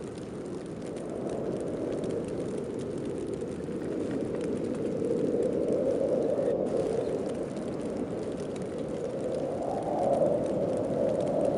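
Snowstorm wind blowing in gusts: a steady, low rushing noise that swells about halfway through and again near the end.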